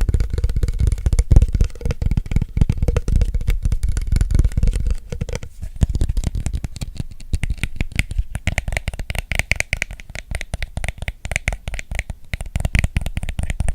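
Rapid, dense finger and nail tapping on an object close to the microphone. The taps are deep and thuddy for about the first five seconds, then turn lighter and brighter for the rest.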